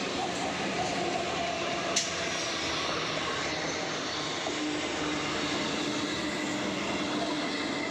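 Indian local train's coaches passing close by, a steady rumble and clatter of wheels on the rails. A single sharp click comes about two seconds in, and a steady hum joins about halfway through.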